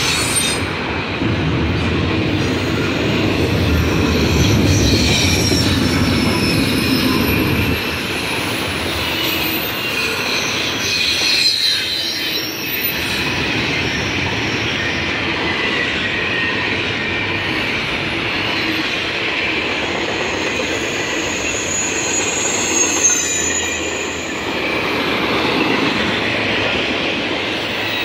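Freight train of double-stack container cars and trailer flatcars rolling past: a steady, loud rumble of steel wheels on rail, heavier for the first eight seconds or so, with high, wavering wheel squeal over it.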